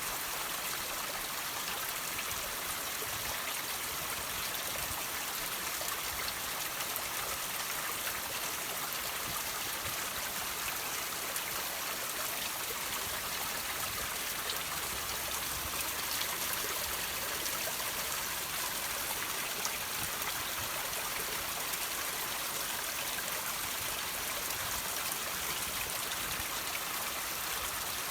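Water dripping and trickling off rocks: a steady splashing hiss, thick with many small drips, that keeps up without a break.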